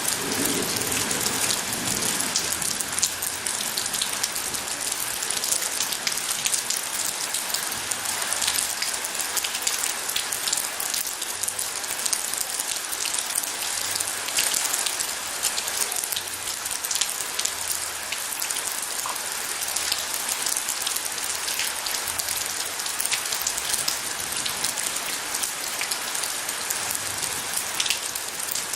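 Steady heavy rain, a dense, even patter of countless drops hitting surfaces. A low rumble dies away in the first couple of seconds.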